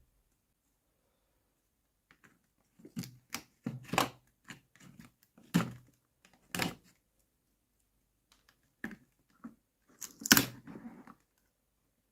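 Small plastic toy kitchen pieces clicking and tapping as they are handled, in scattered sharp taps after about two seconds of quiet, the loudest knock coming about ten seconds in.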